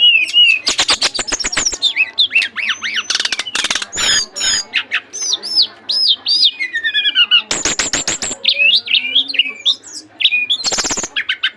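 Caged songbird in full song: a varied run of loud whistled notes, rising and falling, broken several times by fast ticking rattles.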